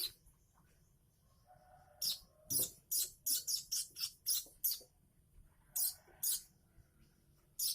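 Young weaver bird chicks chirping in short, high, harsh bursts: a quick run of about three a second, then a couple more and one at the end.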